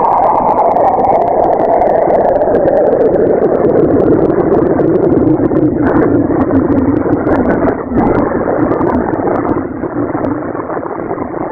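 Synthesized space-ambience drone made as the imagined sound of a moon of the hypothetical Planet Nine: a loud, rushing rumble whose pitch slowly falls, with scattered faint crackles.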